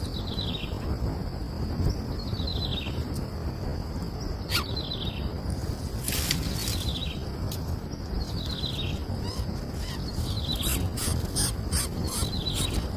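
A bird repeating a short call that falls in pitch, about every two seconds, over a steady low rumble with scattered clicks and a faint steady high tone.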